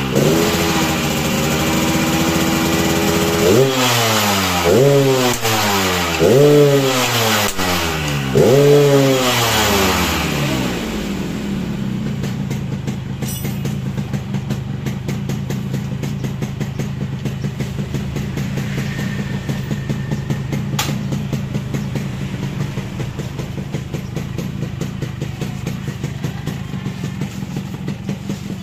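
Yamaha RX-King's single-cylinder two-stroke engine being revved. It holds a higher rev for a few seconds, then gets four quick throttle blips that each rise and fall, then settles into a steady idle about ten seconds in. It runs through its original exhaust fitted with a growl baffle, set up for a raspy 'ngorok' note.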